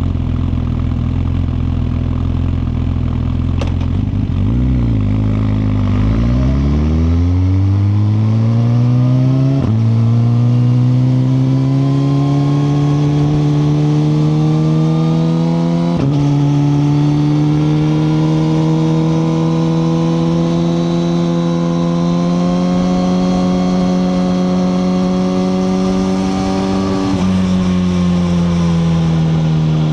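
Suzuki GSX-R1000R's inline-four engine heard from on board. It runs at low revs, then pulls away with rising revs and short upshifts at about ten and sixteen seconds. It then cruises at steady revs and eases off the throttle near the end, its note falling.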